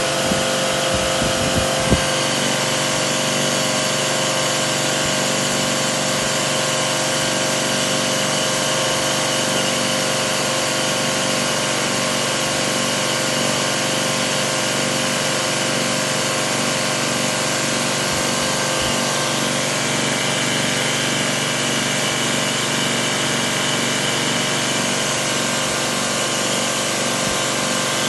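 Washing machine running: a steady motor hum and whine with overtones, with a sharp click about two seconds in. The pitch shifts slightly about twenty seconds in.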